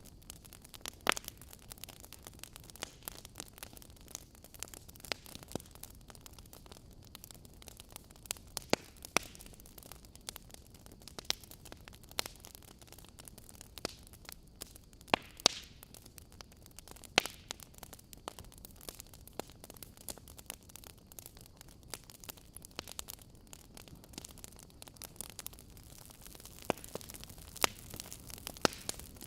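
Wood fire burning in a fireplace, crackling and popping irregularly over a low steady hiss, with a few sharper loud pops.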